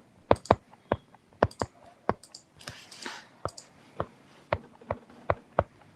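Keys being pressed one at a time: sharp, separate clicks at an uneven pace of a few a second, as figures are keyed in for a calculation.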